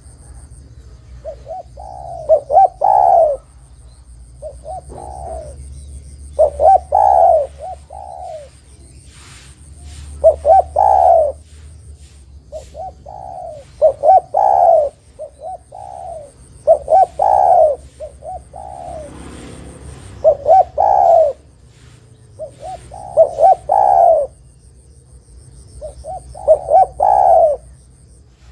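Spotted dove (tekukur) cooing: phrases of three or four short, rising coos, repeated every two to three seconds.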